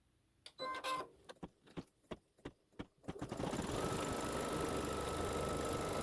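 Embroidery machine started for the tack-down stitching of the batting and background: a few clicks and a short beep, then from about three seconds in it runs steadily, with a high steady whine joining a moment later.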